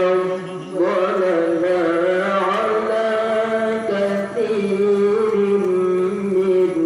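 A male qari reciting the Quran in the melodic tilawah style, holding long ornamented notes. There is a brief break about half a second in, then a rising phrase.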